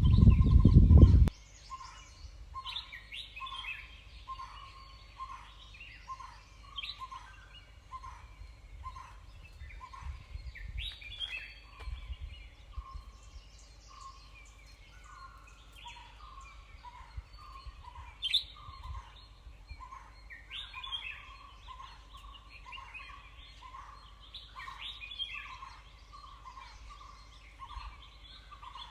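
Forest birds calling: one bird repeats a short mid-pitched note about one and a half times a second while others add scattered higher chirps. A loud low rumble cuts off suddenly about a second in.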